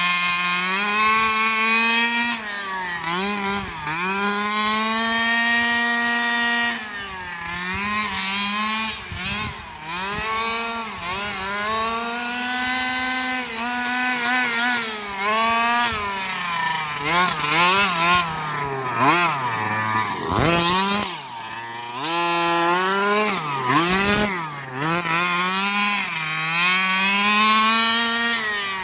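30cc two-stroke engine of a 1/5-scale Redcat Rampage XR Rally RC car with a JetPro tuned pipe, revving up and down over and over as it is throttled on and off; the pitch rises and falls repeatedly, dropping close to idle about two-thirds of the way through before climbing again.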